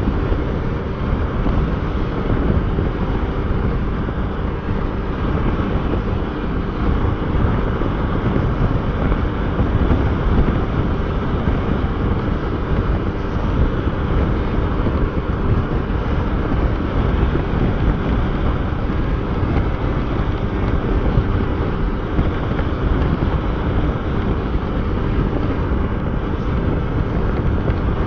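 Motorcycle running at a steady road speed, with wind buffeting the microphone.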